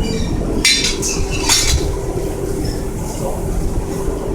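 Steady hum of self-serve car wash equipment, with two short metallic clinks about a second apart.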